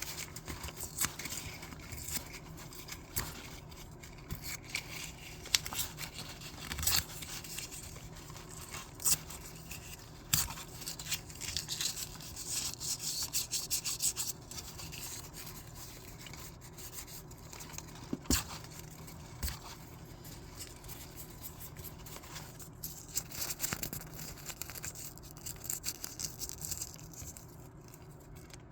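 Sheets of paper being handled and ripped close to the microphone: irregular rustling and crinkling with scattered sharp crackles, busiest in a flurry about twelve to fourteen seconds in.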